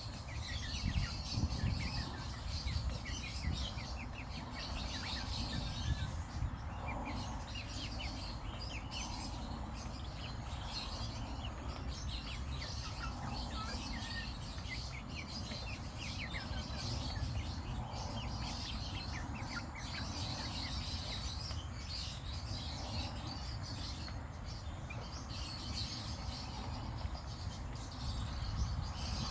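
Baby chicks peeping constantly, many short high falling cheeps overlapping, over a steady low rumble.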